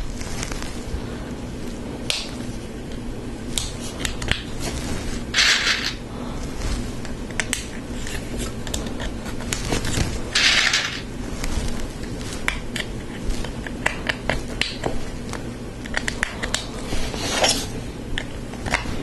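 Hard plastic Lego Technic parts clicking and rattling as they are handled and pressed together, with frequent small sharp clicks and a few short rustling bursts.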